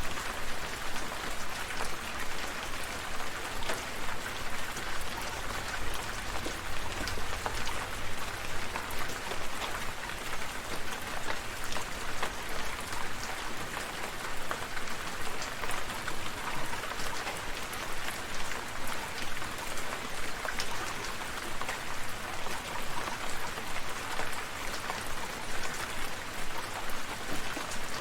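Steady rain falling, with many individual drops pattering on surfaces.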